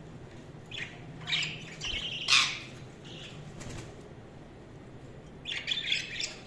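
Pet budgerigars chirping and squawking in short, scattered calls, the loudest about two and a half seconds in and a cluster of calls near the end.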